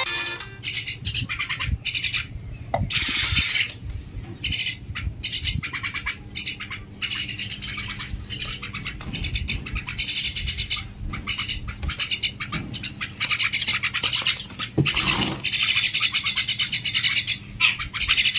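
Common myna (salik) chattering: runs of rapid clicking, rattling calls, repeated in bursts about a second long.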